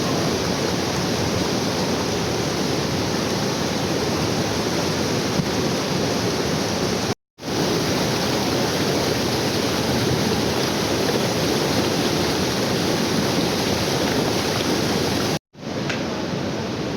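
Waterfall rushing, a steady loud roar of falling water. It cuts out abruptly for a split second twice, about seven seconds in and near the end.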